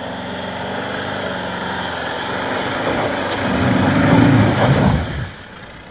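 A 4WD's engine pulling the vehicle up a steep, rough dirt climb. It grows louder a few seconds in as the engine works harder, then falls away sharply near the end.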